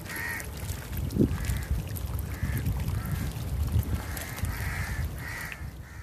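Birds calling repeatedly, short calls every half second to a second, over a steady low rumble, with a single knock about a second in.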